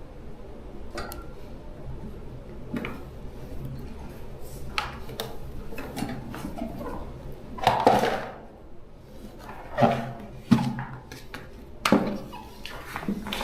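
Hard objects being handled, with scattered clinks and knocks and a few louder knocks in the second half, over a faint low steady hum.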